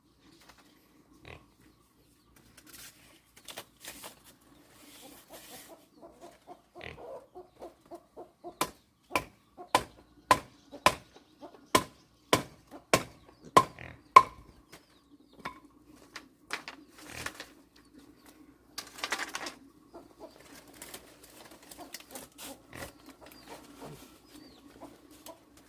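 A run of about fourteen sharp, hard strikes, two or three a second, in the middle, with scattered lighter knocks and rustling around them.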